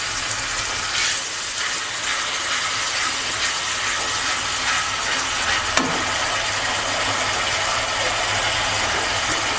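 Onion paste and ground spices frying in oil in a metal wok, a steady sizzling hiss, with a metal spatula stirring and scraping the pan now and then.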